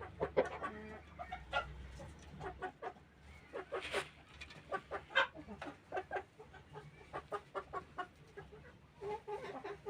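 Chickens clucking in a steady run of short, separate calls, several a second at times.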